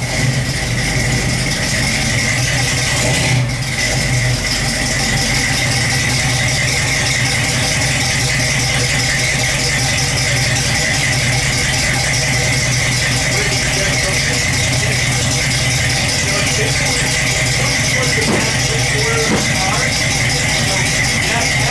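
Large engine of a late-1960s car, just started, idling steadily.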